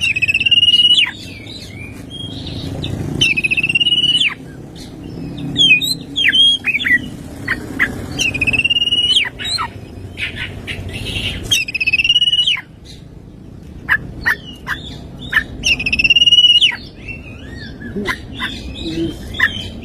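Oriental magpie-robin singing: a buzzy trilled note about a second long, repeated about every three to four seconds, with quick sharp whistles sweeping downward in between.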